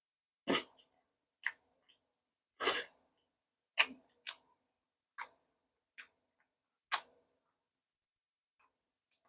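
Close-miked eating sounds: a string of short crunching bites and chews of Korean side dishes, about nine in the first seven seconds, the loudest about two and a half seconds in.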